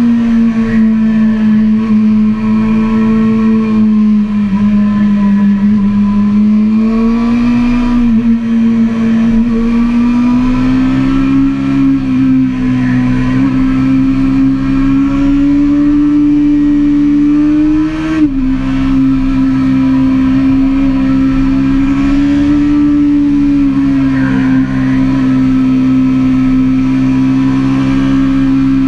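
Suzuki GSX-R sport bike's inline-four engine running hard at a steady, high pitch that climbs slowly over the first two-thirds, with a brief dip in pitch about 18 seconds in and another at the very end. Wind rush mixes in with the engine.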